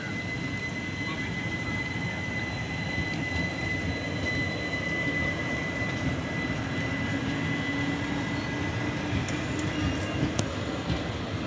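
Train running at the station: a steady low rumble with a thin, steady high whine over it, and a couple of sharp clicks near the end.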